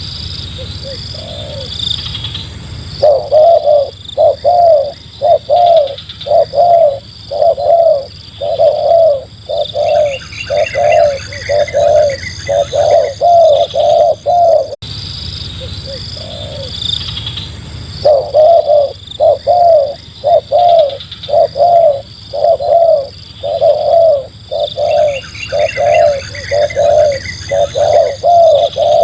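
Spotted dove (tekukur) cooing: after a few soft notes, a long run of loud, rhythmic coos about two a second, the whole sequence repeating about halfway through. A fainter, higher chirping from another bird comes in briefly between the coos.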